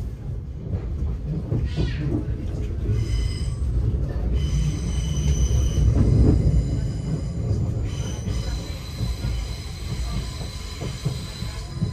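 Thameslink train running on the track, heard from inside the carriage as a steady low rumble. High-pitched wheel squeal sets in about three seconds in, drops out briefly twice, and comes back.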